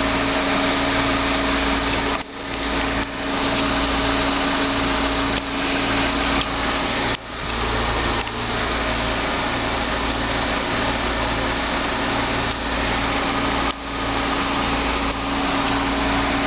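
Steady mechanical hum of an idling car engine and a running heat pump, with a constant low drone and hiss; the level dips briefly a few times.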